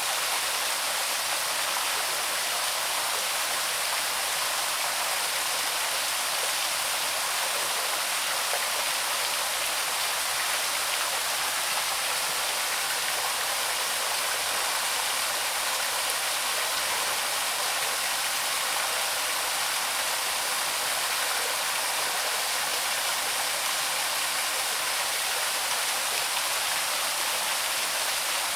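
Small waterfall, water pouring steadily over rocks into a stream: an even, unbroken rush with little low rumble.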